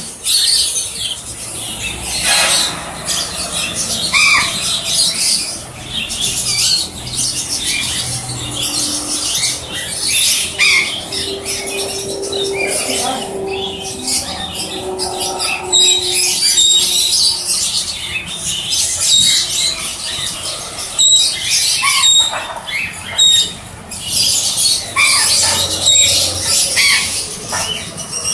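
Red factor canary singing a long, continuous song of rapid high warbles and chirps, with a run of evenly repeated short high notes in the middle.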